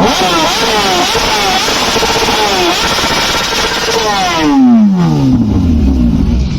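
Superbike engine running hard at high revs, its pitch sweeping and jumping back up several times in quick succession, then falling away in one long slide near the end.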